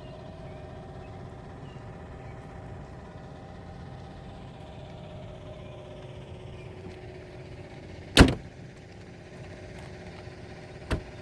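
A Jeep Grand Cherokee L's hood slammed shut with a single loud bang about eight seconds in, followed by a lighter knock near the end, over a steady low hum.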